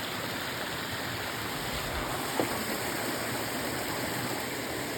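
Small waterfall on a mountain stream: water rushing and splashing steadily.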